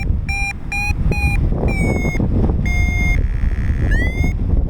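Paragliding variometer beeping, with short beeps about three a second, then longer tones at shifting pitch, a steadier buzzing tone and a quick rising tone near the end: the audio signal of the air rising and sinking around the glider. Wind buffets the microphone underneath.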